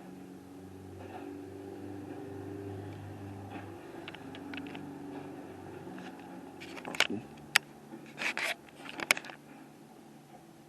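A vehicle or machine engine running steadily, then a handful of sharp clicks and knocks about seven to nine seconds in.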